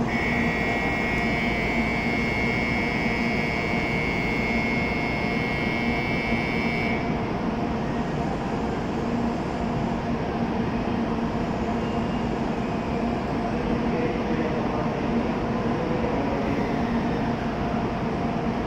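Steady hum of a stationary N700A Shinkansen train standing at the platform. For the first seven seconds a steady high electronic tone rings over it, then cuts off suddenly.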